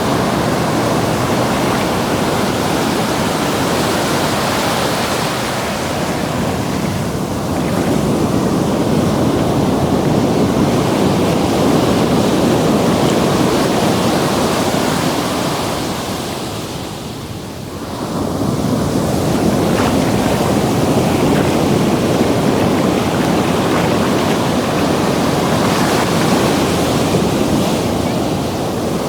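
Ocean surf washing in at the water's edge: a steady rush of breaking and receding waves that eases briefly about two-thirds of the way through, then swells again.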